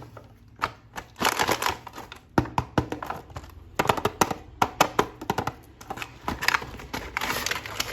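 Plastic toy packaging and a toy being handled: irregular crinkling with many sharp clicks and taps.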